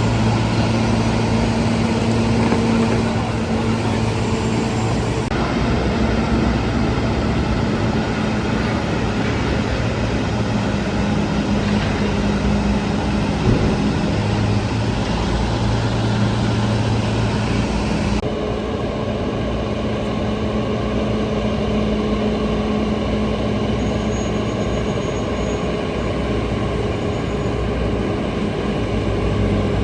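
Liebherr T 264 mining haul truck running as it moves, a steady low drone with a hum that comes and goes. The higher hiss drops away about eighteen seconds in.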